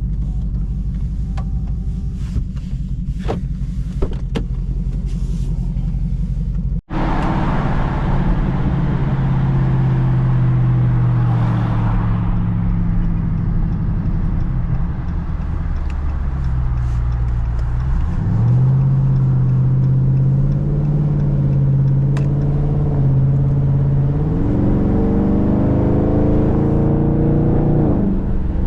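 Dodge Scat Pack's 392 Hemi V8 running with a low rumble, its note shifting up and down, then climbing steadily near the end as the revs rise. The sound cuts out for an instant about a quarter of the way in.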